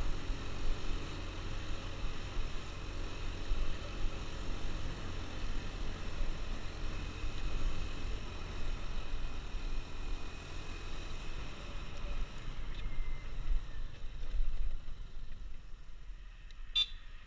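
Motorcycle being ridden, its engine running under strong wind rumble on the microphone. The sound drops away near the end, with a single sharp click just before it ends.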